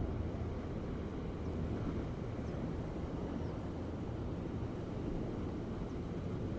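Ocean waves: a steady, low, even rush of surf with no break or change.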